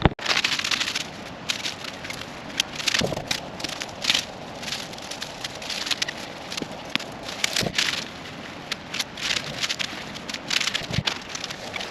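Irregular rustling and crackling from a camping hammock and its straps being handled and hung between trees, with short scrapes and crinkles coming every fraction of a second.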